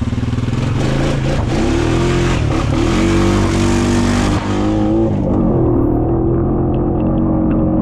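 Honda Rubicon quad's engine revving up and down repeatedly under load while climbing through mud in two-wheel drive. A loud hiss rides over it and drops away about four and a half seconds in.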